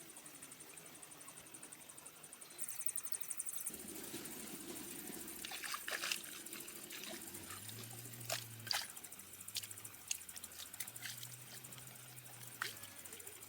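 Water splashing and trickling in short irregular bursts, as from a net or fish being worked in shallow water. A high, rhythmic chirping runs in the background and stops about three seconds in.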